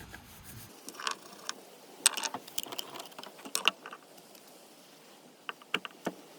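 A scatter of light, sharp clicks and knocks from hard mussel shells and small camp-cooking gear being handled.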